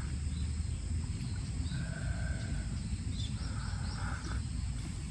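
Outdoor ambience: a steady low rumble with a few faint bird calls, including a quick run of small chirps about three and a half seconds in.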